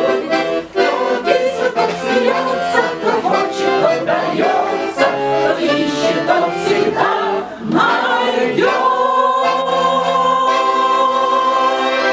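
Choir singing a march-like song with accordion accompaniment, in rhythmic chords that give way, about two-thirds of the way in, to a long held final chord.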